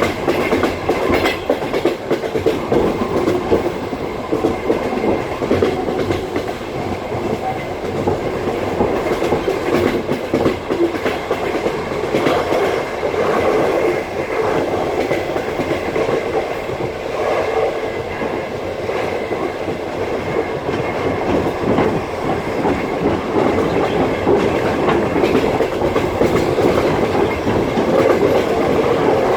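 Passenger train carriage running at speed: the wheels clatter over the rail joints over a steady rumble of the running gear, heard from inside the carriage.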